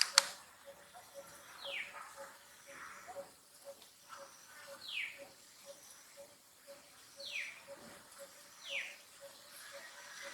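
Baby macaque crying: a series of short, high, thin calls, each falling in pitch, repeated every one to three seconds. A sharp click sounds right at the start.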